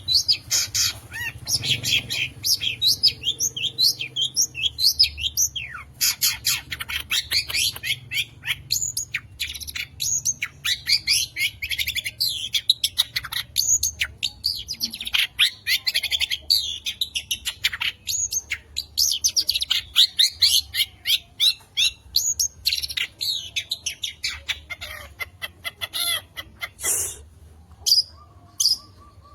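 Long-tailed shrike (cendet) singing a fast, varied song stuffed with mimicked calls: dense runs of quick chirps and sweeping notes, broken by short pauses.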